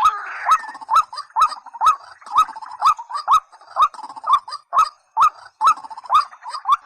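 A rail-family waterbird calling over and over: a short rising note about twice a second, each starting with a sharp click, from a looped recording of white-breasted waterhen and watercock calls.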